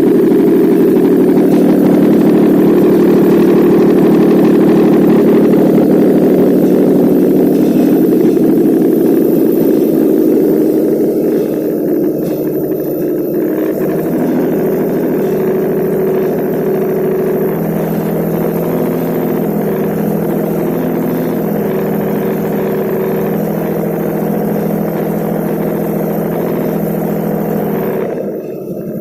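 Nissan VQ35DE 3.5-litre V6 engine running steadily on a test stand; about twelve seconds in it settles to a slightly quieter, lower steady idle.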